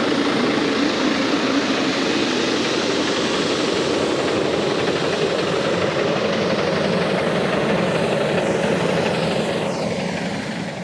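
Tractor engine running steadily, fading away near the end.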